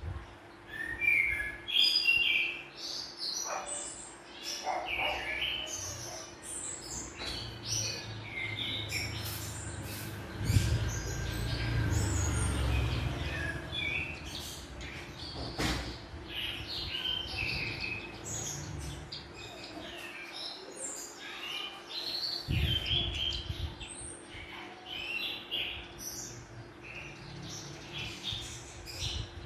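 Birds chirping and twittering: many short, high calls from several birds, over a faint steady hum, with a low rumble for a few seconds around the middle.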